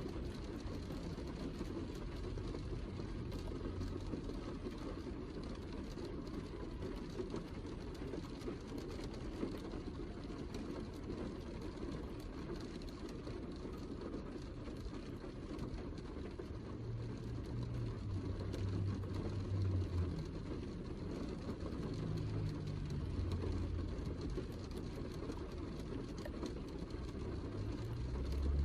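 Heavy rain falling steadily, a dense even wash, with low rumbles swelling now and then in the second half.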